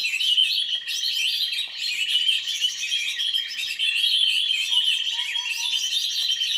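Birds chirping in a dense, unbroken chorus of high, overlapping twitters and tweets.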